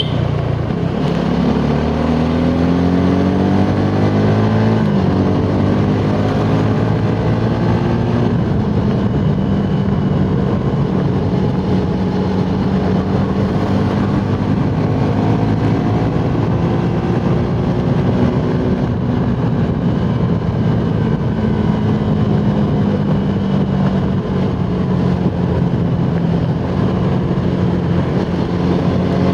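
Suzuki Gixxer SF 250's single-cylinder engine pulling hard at high speed. Its pitch climbs over the first few seconds and drops at a gear change about five seconds in, then holds high with slow rises and dips, under heavy wind rush.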